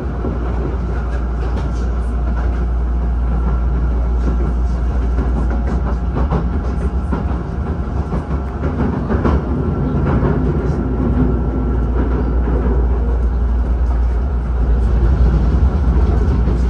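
Hankyu electric train running: a loud, steady rumble with a faint steady tone above it and scattered clicks of wheels over the rails.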